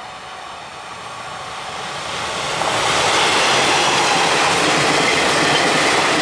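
Train running on rails: a steady rush of wheel and rail noise that grows from about a second in and stays loud through the rest.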